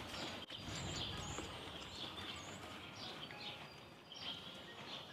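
Small birds chirping: short, high calls scattered through, over faint, steady outdoor noise.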